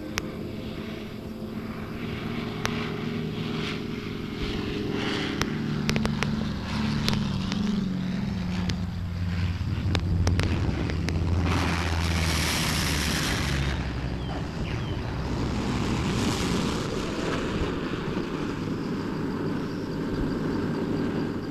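Propeller aircraft engine running, its pitch falling steadily over the first half, with a louder rushing noise for about two seconds a little past the middle.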